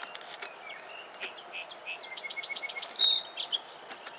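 Songbirds singing, a series of short high chirps, with a quick run of repeated short notes about two seconds in and a clear whistled note near the middle that is the loudest sound.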